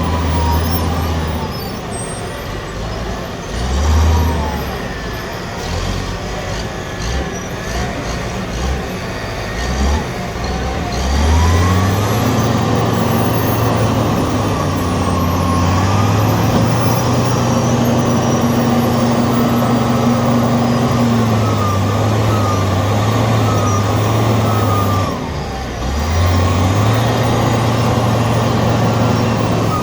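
Michigan 55C wheel loader's diesel engine working as it loads a truck, the revs rising and falling with a whine that glides up and down in pitch. It revs up and holds high about a third of the way in, drops briefly near the end, then revs up again.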